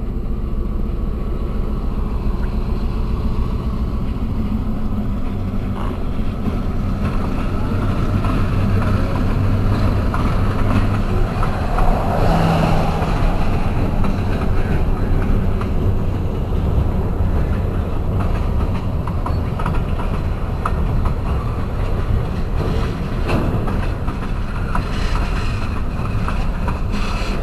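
Florida Central EMD CF7 diesel locomotive and its freight cars rolling past, with a steady low diesel rumble. In the second half, the wheels click over the rail joints.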